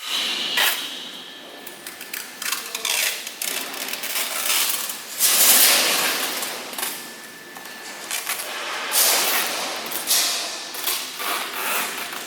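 Factory workshop noise: irregular metal clanks and knocks mixed with swelling bursts of hissing.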